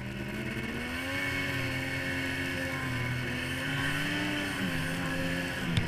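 1998 Yamaha SRX700 snowmobile's two-stroke triple running under way at a steady speed. Its note rises a little about a second in and dips briefly near the end, over a steady hiss.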